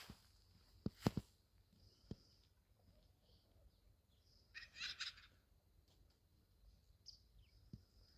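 Quiet outdoor sounds: a few sharp clicks or knocks, and a short bird call about five seconds in.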